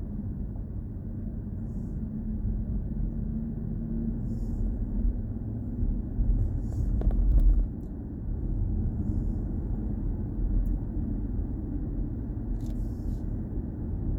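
Steady low road and tyre rumble of a BMW i4 M50 electric car being driven, with no engine noise, swelling briefly about halfway through.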